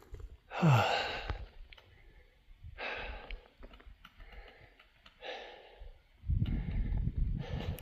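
A winded hiker breathing heavily after a hard climb through snow: a loud groaning sigh falling in pitch about a second in, then slow, deep breaths every two seconds or so. A low rumbling noise sets in about six seconds in.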